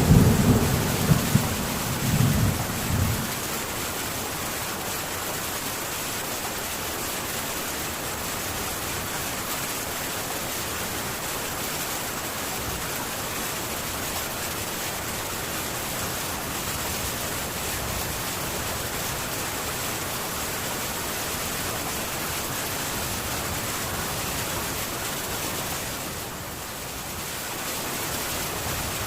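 Heavy rain falling steadily on a metal tin roof. A low thunder rumble dies away in the first three seconds.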